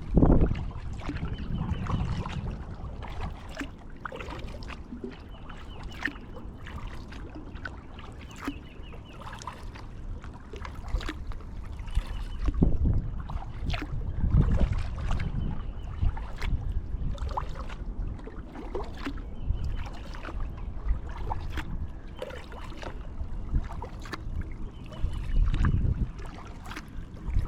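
A kayak being paddled: uneven strokes of the paddle through the water, with frequent small clicks and knocks.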